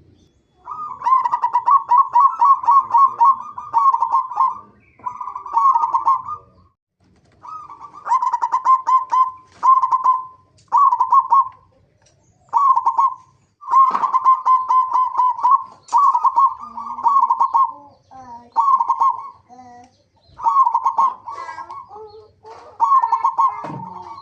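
Zebra doves (perkutut) cooing: rapid staccato runs of coos on one steady pitch, in repeated bouts of one to two seconds with short pauses between.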